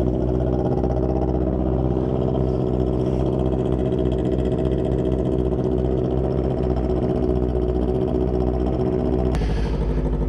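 A vehicle engine idling steadily. About nine seconds in there is a sharp click and the engine note changes.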